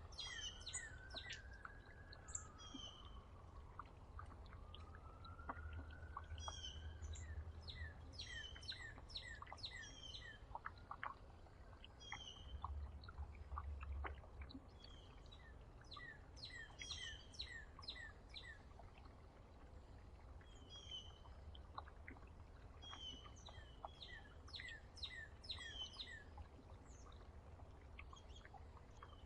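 Small songbirds chirping and calling throughout in quick series of short, sharp notes, over a faint low rumble.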